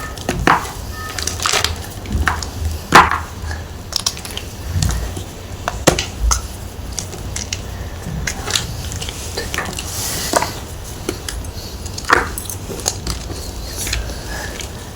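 Blocks of gym chalk being crushed and crumbled, giving a run of irregular sharp, dry crunches and cracks, the loudest about three seconds in and again near the end.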